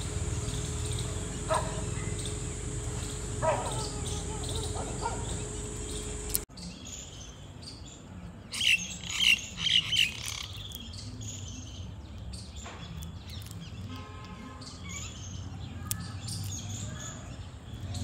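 A steady hum with a few short animal calls, then an abrupt change to small birds chirping in quick high bursts, loudest about nine seconds in, with fainter chirps after.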